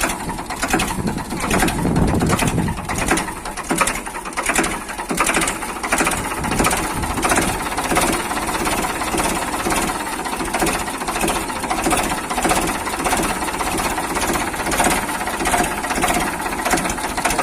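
Mini tractor running with a fast, even mechanical clatter, steady throughout.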